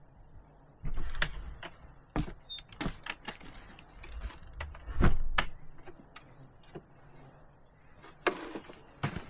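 Handling noises from a plastic container being worked into a bag: an irregular run of sharp clicks, snaps and knocks, with heavier thuds about a second in and about five seconds in.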